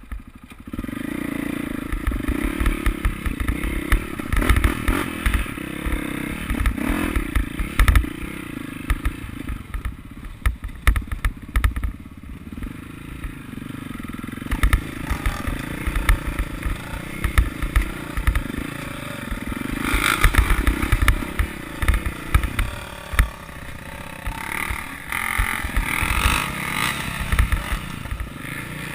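Motocross dirt bike engines running and revving, rising and falling in pitch, with frequent low thumps.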